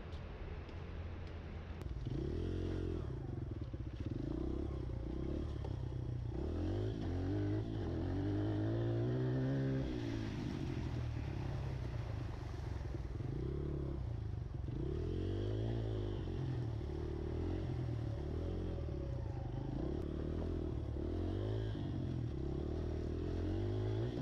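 Pit bike engine revving up and down repeatedly, its pitch rising and falling every second or two. It is quieter for the first couple of seconds, then louder.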